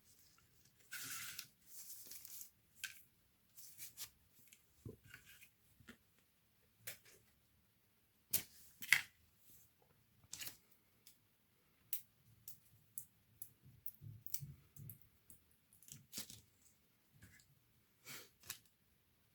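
Faint scattered clicks and taps of hands handling small laptop parts and tools, with a scraping rustle of about a second and a half shortly after the start and a couple of sharper clicks around the middle.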